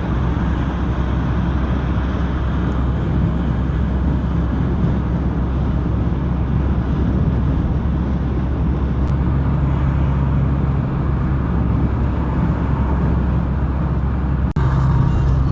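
Steady road noise inside a moving car at highway speed: a low engine and tyre drone with a hiss of wind and road over it. About a second before the end it breaks off for a moment.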